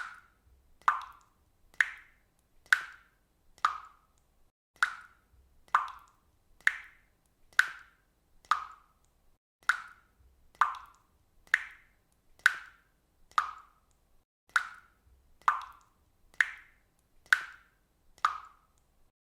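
Water dripping at a steady rhythm, about one drop a second. Each drop lands with a sharp click and a brief ringing tone.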